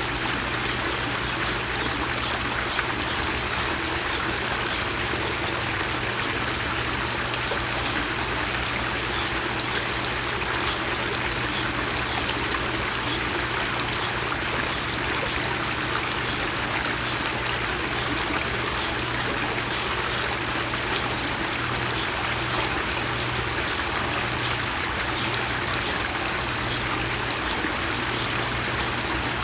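Steady rushing noise, even and unchanging like running water, over a low steady hum.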